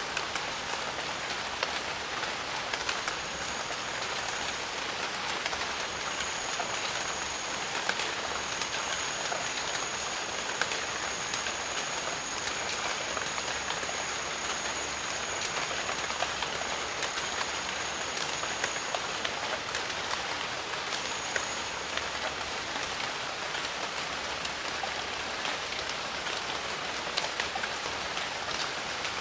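Steady, even rain falling in jungle, with many close drops ticking through it. A thin, high, steady tone sounds over the rain from about three seconds in until about two-thirds through, and comes back briefly after that.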